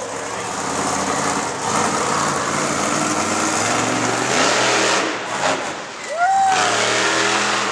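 Monster truck engine running loud and revving, its pitch rising and falling as the truck throws a slap wheelie.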